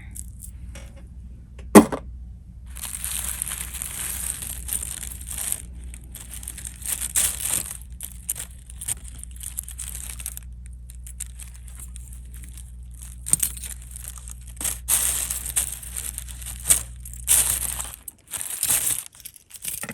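Hands rummaging through a pile of costume jewelry: rustling and crinkling with small clicks, and one sharp click about two seconds in.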